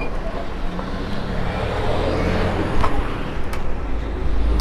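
Road traffic noise with a steady low rumble, a short high beep at the start and a couple of sharp clicks about three seconds in.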